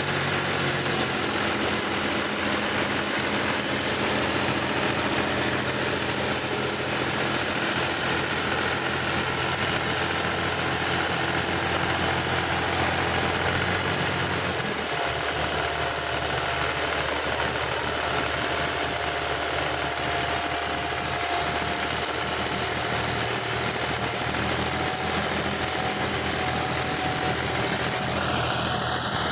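Tractor engine running steadily; its low note changes about halfway through.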